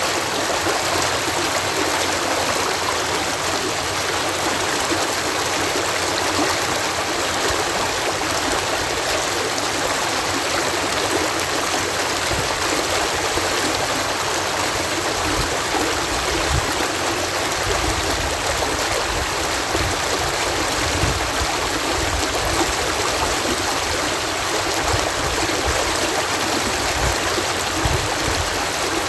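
Water pouring in a steady cascade at a canal lock, a dense even rush with a low rumble that comes and goes in the second half.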